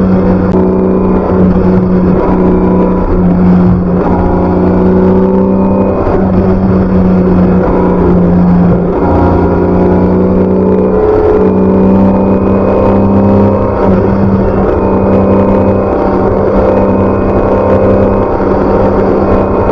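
BMW K1600B's inline six-cylinder engine through its stock exhaust, running steadily under way with small rises and falls in pitch.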